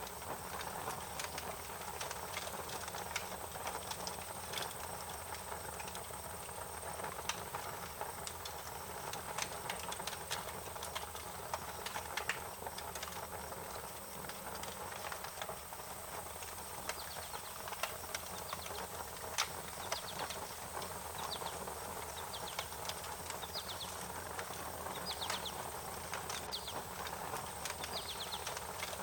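Wood fire crackling: irregular sharp pops and snaps over a steady hiss. From about the middle on, short quick series of faint high chirps come in now and then.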